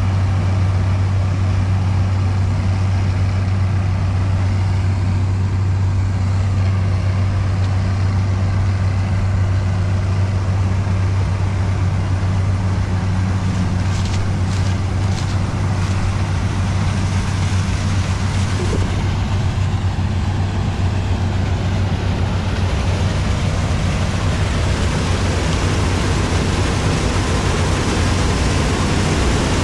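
Farm machinery diesel engine running steadily at constant speed, a strong low hum, with a few short clicks about halfway through and a rising rushing hiss in the last third.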